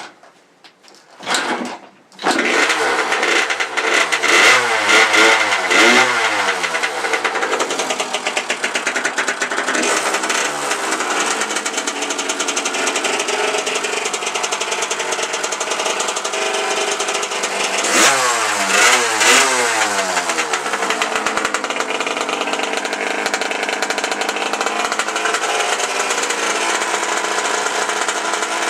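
1989 Yamaha YZ80's two-stroke single-cylinder engine starting from cold. It gives a short burst about a second in, catches about two seconds in and is revved up and down several times. It is revved again briefly around eighteen seconds in and otherwise runs steadily.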